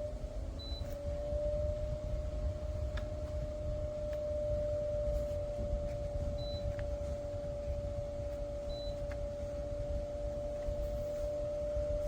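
Small fan motor of a Fosvill F22 personal evaporative air cooler running: a steady hum with one steady whining tone over a low rumble, which settles slightly higher about a second in.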